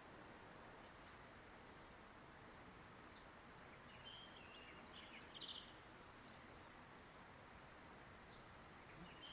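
Quiet outdoor ambience: a faint steady hiss with scattered bird chirps, one short chirping phrase heard near the middle and again near the end.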